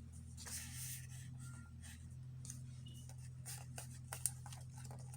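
Paper and card being handled at a craft table: a brief rustle and scattered light taps and clicks, over a steady low hum.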